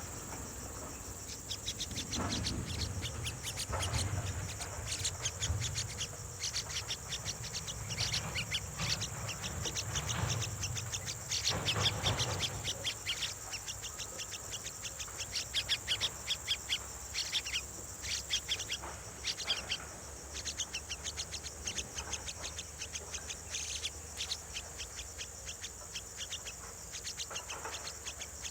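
Nestling birds begging for food with rapid, repeated high-pitched chirps, coming in dense runs. A steady high insect hum sits behind them, and there is low rumbling through the first half.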